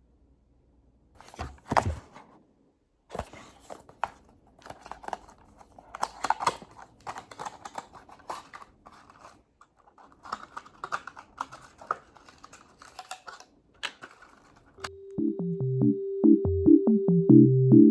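Irregular small clicks, taps and rustles, like objects being handled close to the microphone. Electronic synthesizer music with a held tone and stepping bass notes starts about three seconds before the end.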